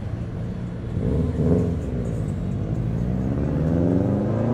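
A car engine revs once about a second in, then accelerates away, its pitch rising steadily through the second half.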